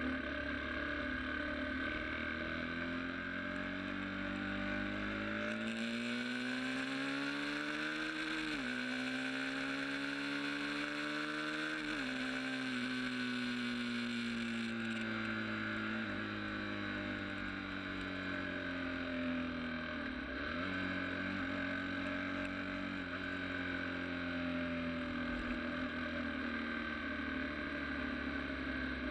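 Sport motorcycle engine running under way, its pitch climbing steadily as the bike speeds up and dropping sharply at gear changes, three times.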